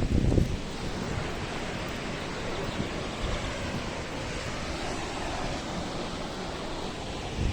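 Steady rushing roar of the Krimml Waterfalls' cascading water, with a brief low buffet at the very start.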